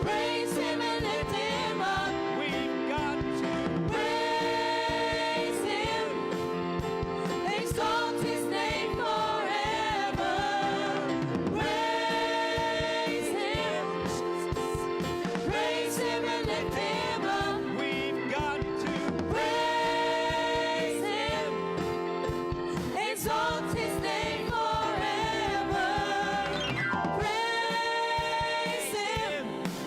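Gospel-style Christian song: voices singing long held notes in phrases over instrumental accompaniment.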